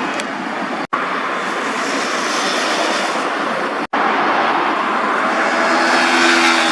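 Superbike engines at high revs, a loud dense exhaust noise, in three short stretches split by two abrupt cuts about one second and four seconds in.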